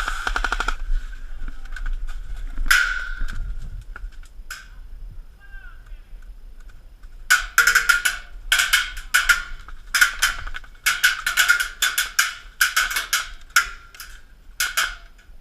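Airsoft electric rifle firing on full auto: a burst trailing off at the start, then a run of about a dozen short bursts from about seven seconds in.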